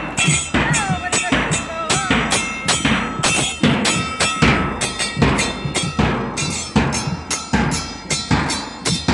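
Music led by drums, beating a steady rhythm of about two strikes a second, with a few falling gliding tones in the first two seconds.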